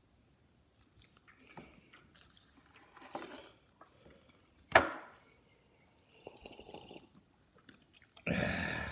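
A person chewing food, with small mouth and handling noises. About halfway through there is one sharp knock, and near the end a short burst of noise.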